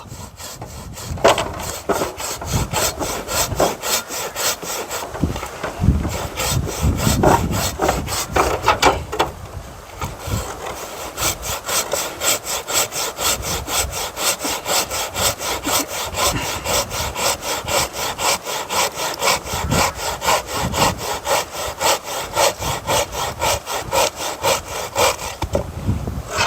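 Hand saw cutting through firewood in steady, rapid back-and-forth strokes, with a short pause about ten seconds in.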